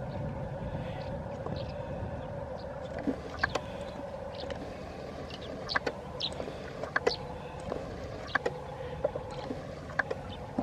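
Diesel train running with a steady drone, joined from about three seconds in by irregular sharp metallic clicks and clanks.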